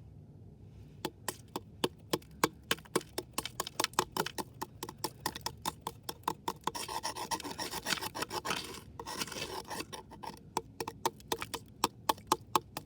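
Ice being chipped and broken up: a rapid, irregular series of sharp taps and cracks, a few a second, starting about a second in. A stretch of scraping comes midway.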